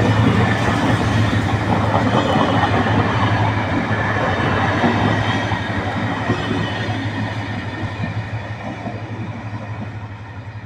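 Diesel-hauled passenger train passing, its wheels clattering over the rail joints with a low engine hum beneath, the sound fading steadily as the train moves away.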